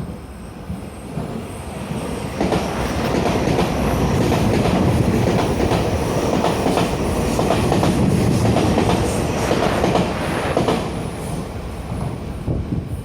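Taiwan Railway Puyuma tilting electric express train passing at speed, its wheels clacking over the rail joints. The noise builds over the first few seconds, holds loud through the middle, and falls away near the end.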